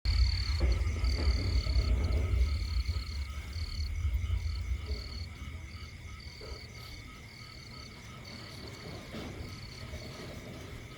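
Toad calling, with a high, pulsing insect-like chirp that repeats on and off throughout. A loud low rumble fills the first few seconds and then fades.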